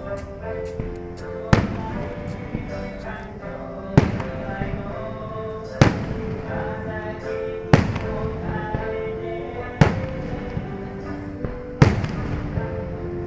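Aerial fireworks shells bursting with six loud booms about two seconds apart, with fainter crackles between them. Music with held notes plays underneath.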